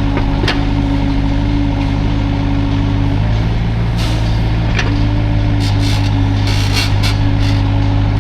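Hydraulic excavator's diesel engine running steadily with a held whine over it that drops out briefly about three seconds in. A few sharp knocks and short hissing bursts come through over the engine.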